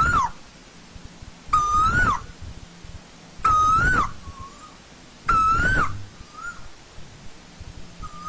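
Asian koel calling: a single pitched call that rises then drops, repeated about every two seconds.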